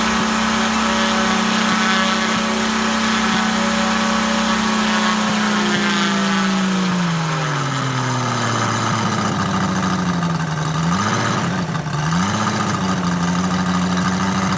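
Moki 257 250cc seven-cylinder radial gas engine on a quarter-scale model aircraft, running with a three-blade propeller. It holds a steady high speed, is throttled back over a few seconds, wavers briefly about eleven seconds in, then picks back up and runs steadily again.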